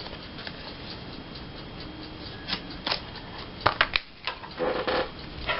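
Light rustling and scattered clicks and taps of a cardstock tag being handled on a craft table, with a cluster of clicks about two and a half to four seconds in.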